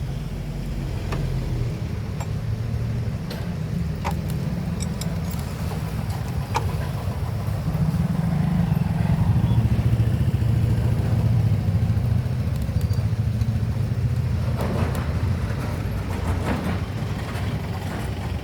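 A motor engine running steadily with a low, rapidly pulsing rumble that swells a little in the middle, with a few sharp metallic clicks on top.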